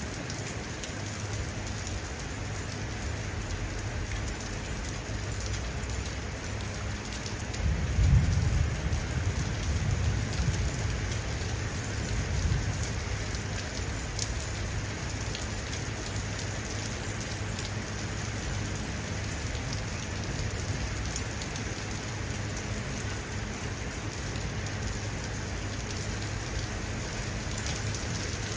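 Steady rain falling and pattering on surfaces, with a low rumble of thunder swelling up about eight seconds in and dying away over several seconds.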